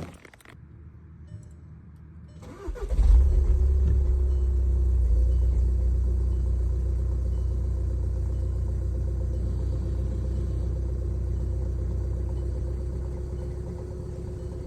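Stock Volkswagen Mk6 TDI diesel engine cold-starting. It cranks briefly about two and a half seconds in, catches with a flare of revs, then settles into a steady cold idle with a faint whine over the diesel rumble, easing slightly as it settles.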